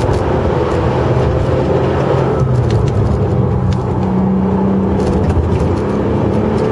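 Bentley Continental Supersports' twin-turbo W12 engine under way, heard from inside the cabin with road noise. The engine note climbs in pitch about halfway through.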